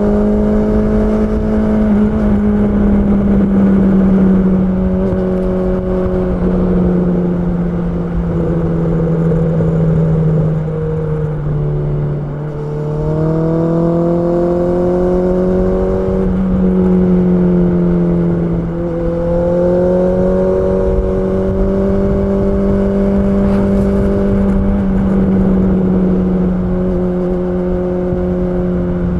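Honda CB650R's inline-four engine running at fairly steady, high revs. Its pitch sags and climbs again a couple of times, about a third and two thirds of the way through.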